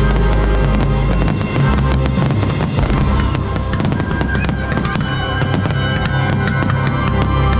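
Loud show soundtrack music with heavy drums, mixed with repeated sharp bangs of fireworks.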